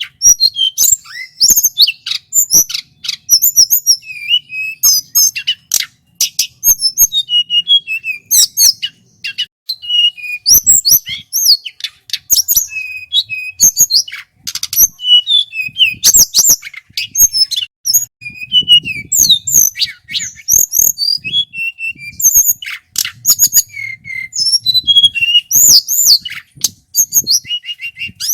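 Male tledekan gunung singing loudly and without pause: quick, varied whistled phrases and trills mixed with many sharp clicks.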